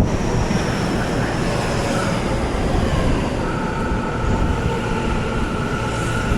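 Electric commuter train running at the station: a steady rumble with a faint motor whine that slowly falls in pitch, as when a train slows.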